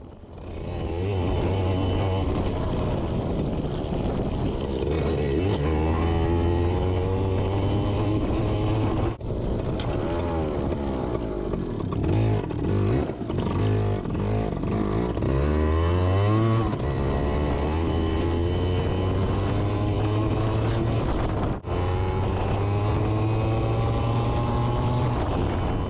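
Yamaha PW80's small two-stroke single-cylinder engine running as the bike is ridden, its pitch rising and falling with the throttle. It drops off briefly about nine seconds in and again a little after twenty seconds, and revs up and down repeatedly between about twelve and sixteen seconds in.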